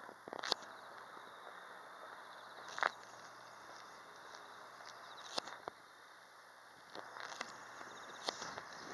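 Steady outdoor background hiss broken by a few sharp clicks or taps, two to three seconds apart, with a run of quicker small ticks near the end.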